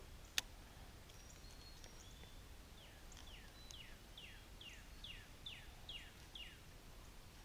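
A bird calling a series of about nine short, downward-slurred notes, roughly two or three a second, against faint outdoor quiet. A single sharp click comes just before the calls begin.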